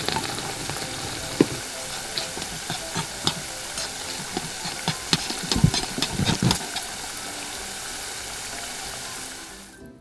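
Sauce sizzling in a miniature metal wok as battered fried chicken pieces drop in and are stirred through it, with scattered clicks and a cluster of heavier knocks of the utensil against the pan about halfway through. The sizzling stops suddenly just before the end.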